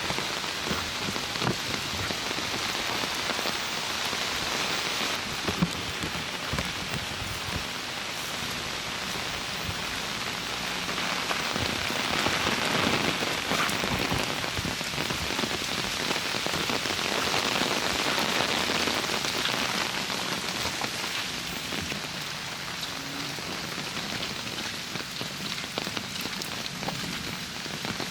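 Steady rain falling, with many close, separate drop ticks over an even hiss that swells and eases gently.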